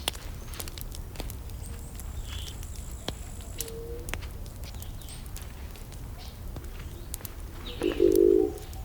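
Wood fire crackling, with scattered sharp pops and snaps over a low steady rumble. Near the end a bird gives one loud, short coo.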